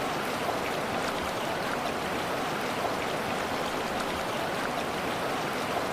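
Steady, even wash of water noise with a few faint ticks in it.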